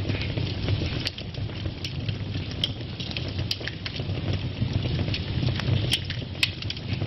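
Wood fire burning in a fireplace: a steady low rumble of the flames with irregular sharp crackles and pops, about seven in a few seconds.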